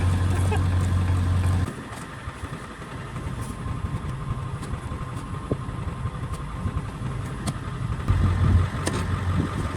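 Truck engine idling in drive while a Stickler screw-cone log splitter on its wheel hub bores into a log, shaking the whole truck with a heavy low drone. The drone cuts off suddenly after about a second and a half, leaving the idle with scattered sharp cracks, and comes back briefly near the end.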